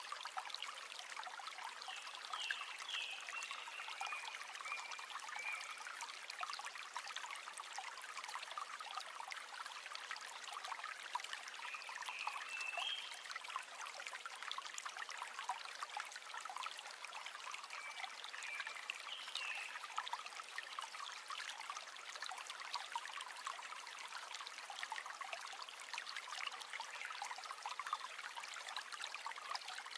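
River water running and babbling steadily over stones, with a few short high chirps now and then.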